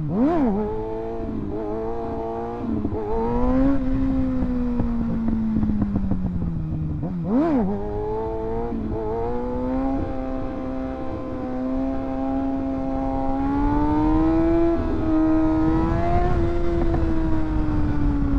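Kawasaki ZX-6R 636 inline-four engine under way, with two quick throttle blips, one at the start and one about seven seconds in, between stretches of steady running. Near the end the engine pitch climbs slowly, then eases off. Wind noise rushes over the microphone throughout.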